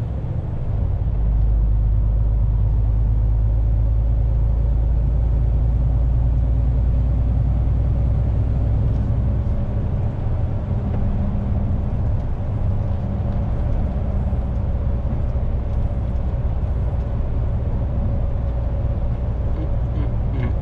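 Diesel truck engine and road noise heard from inside the cab, a steady low rumble that dips briefly at the start and then picks up and holds.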